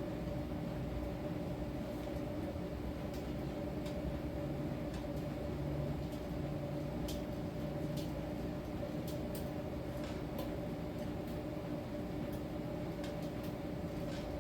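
Miele T1 heat-pump tumble dryer running in its drying phase: a steady mechanical hum with two constant tones over a low rumble, and scattered faint clicks.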